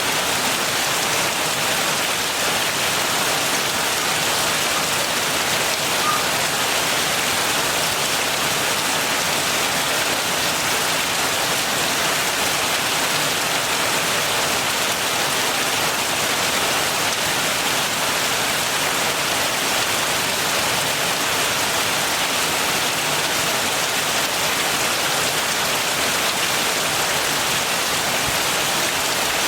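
Heavy rain falling steadily, an even hiss of countless drops with no pauses or thunder.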